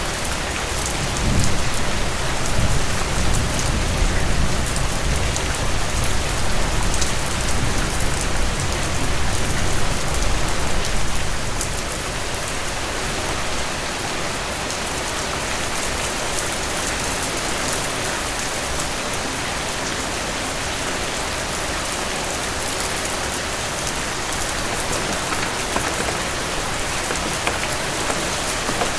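Steady rain falling, with a low rumble of soft thunder through roughly the first ten seconds that then dies away, leaving the rain alone.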